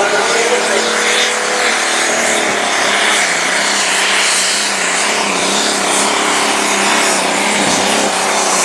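Turbocharged diesel engine of a limited pro stock pulling tractor running hard and steady at high revs under load during a pull, its pitch wavering slightly.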